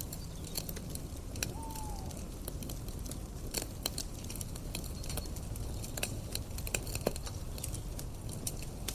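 Campfire crackling: irregular sharp snaps of burning wood over a steady low rumble, with one short falling call-like tone about a second and a half in.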